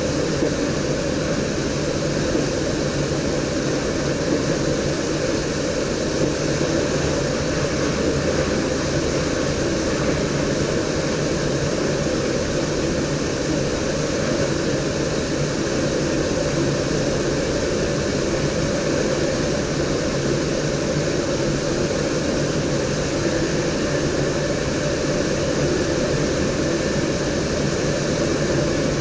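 Steady running noise of a DDZ double-deck electric train heard from inside the driver's cab at speed: an even rumble with a rushing hiss over it, unchanging throughout.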